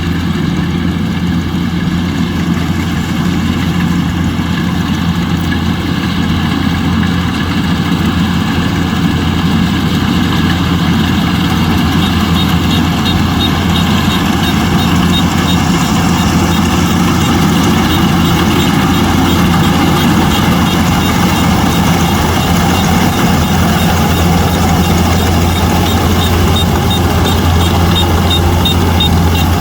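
Rice combine harvester's engine running steadily with a deep drone, getting slightly louder as it goes. From about halfway through, a fast, light, high ticking from the machine joins in.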